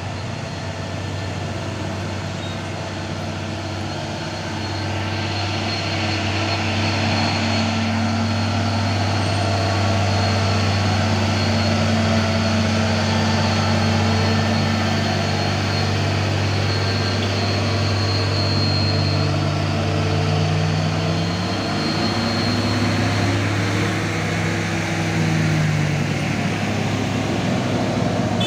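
Heavy truck's diesel engine labouring up a steep grade, growing louder about five seconds in as it nears; near the end its pitch climbs.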